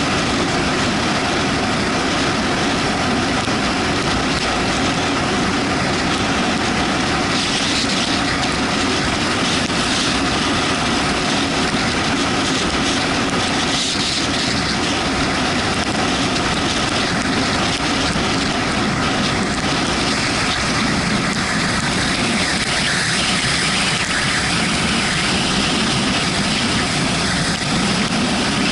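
Yamaha MT-125's single-cylinder engine running while the motorcycle is ridden, almost buried under a steady rush of wind and road noise.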